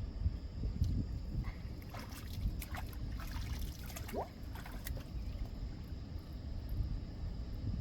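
Water sloshing and trickling around a small rowboat on a lake, with a few light splashes as from paddling or handling gear in the water, over a low rumble. A brief rising squeak about four seconds in.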